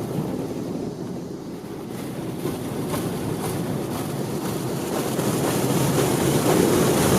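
Mark VII Aqua Jet GTO-300 touch-free car wash blasting high-pressure water onto a car, a steady spray hiss that grows slightly louder.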